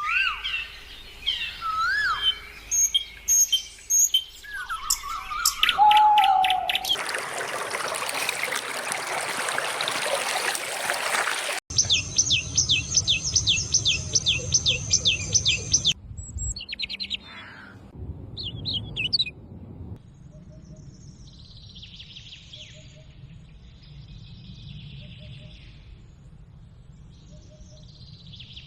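Birds calling and chirping, the sound changing abruptly several times: whistled rising and falling calls with sharp clicks, a stretch of steady rushing noise, a rapid high trill repeating evenly for about four seconds, then softer scattered chirps.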